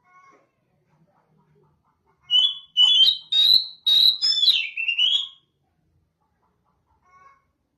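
Oriental magpie-robin (kacer) singing one loud phrase of about three seconds, starting about two seconds in. Bright whistled notes are broken by sharp, harsh clicks, and the phrase ends on a note that dips and then rises.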